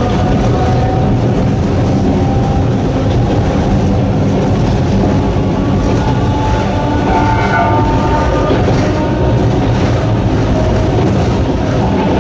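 Narrow-gauge Sanki Railway Hokusei Line train running, its nose-suspended traction motors whining with a slowly rising pitch over the steady rumble and clatter of the wheels on the rails.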